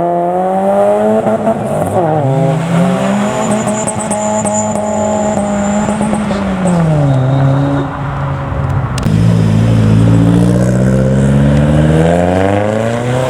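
Modified car engine revving, its pitch climbing and falling several times with the throttle: a quick dip and rise about two seconds in, a long fall around six to seven seconds, then climbing again and held.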